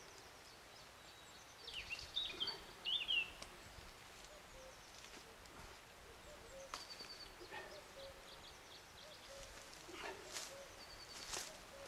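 A songbird chirping in a quick run of rising and falling notes about two to three seconds in, with fainter single calls later. A few short clicks and rustles near the end.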